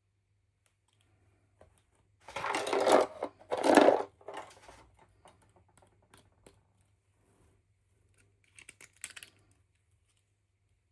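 Packaging being handled and opened: two loud rustling noises about two and a half and four seconds in, softer crackles after them, and a short cluster of clicks and rustles near the end.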